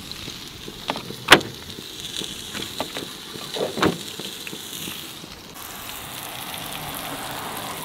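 Salmon fillet sizzling in a frying pan on a propane camp stove, with a few sharp knocks and clacks of a plate and gear being handled, the loudest about a second in. The sizzling gets fuller about five seconds in.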